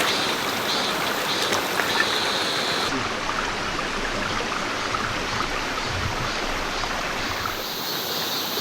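Mountain stream rushing steadily over rocks, an even wash of running water.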